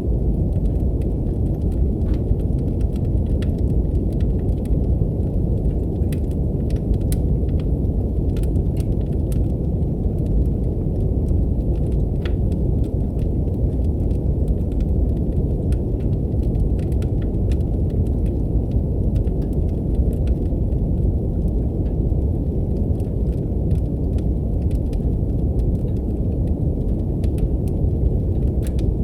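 Steady brown noise, a low rushing hiss, with the faint scattered pops and crackles of a fireplace fire throughout.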